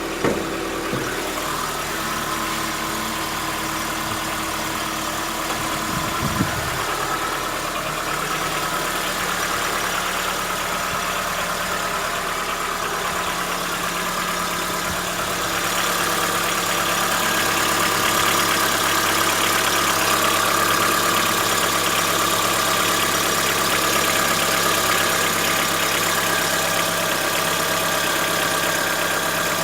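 Chevrolet Onix 1.4 four-cylinder engine idling just after a cold start, with the diesel-like clatter that the owner takes for tappet knock or another part knocking inside the engine, not the injectors. The sound grows somewhat louder and brighter about halfway through.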